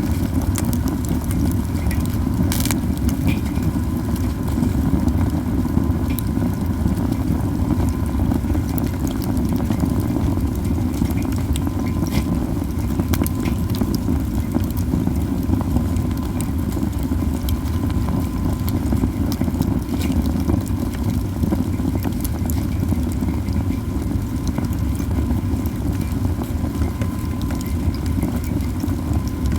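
A heap of pine cones burning: a steady low rush of flames with scattered sharp crackles and pops.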